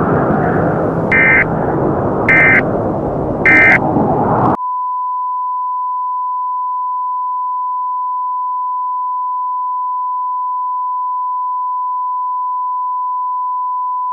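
Three short EAS digital end-of-message data bursts, about a second apart, over a loud rumbling noise. About four and a half seconds in, the noise and bursts cut off abruptly to a single steady tone near 1 kHz.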